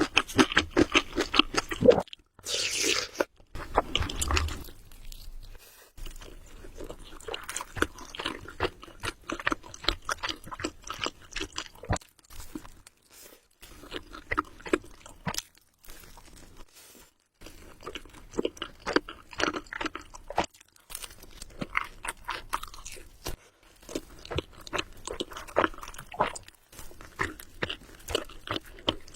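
Close-miked eating sounds of someone eating Samyang Buldak carbonara spicy noodles: runs of rapid chewing broken by short pauses.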